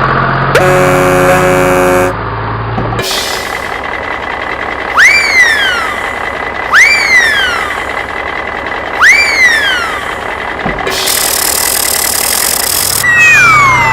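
Cartoon sound effects: a horn honks for about a second and a half, then three loud swooping chirps that rise and fall in pitch over a steady high whine, a burst of hiss, and a whistle sliding down in pitch at the end.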